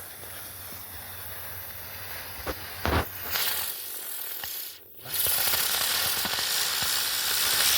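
Spinner UFO firework burning: a couple of small pops, then its driver ignites with a loud hissing spray about three seconds in. The spray drops out for a moment a little before halfway, then comes back louder and runs steady.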